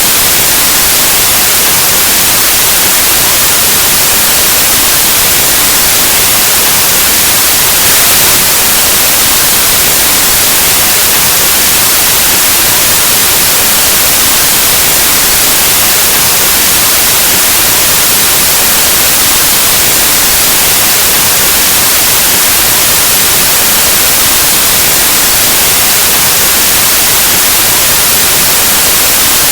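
Steady, loud white noise: a flat hiss like analog TV or radio static, unchanging throughout.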